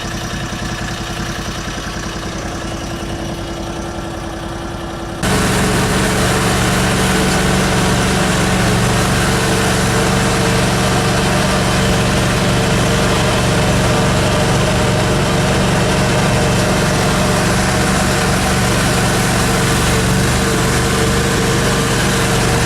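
A motor vehicle's engine running steadily, heard from on board. About five seconds in the sound cuts suddenly to a louder, steady engine hum.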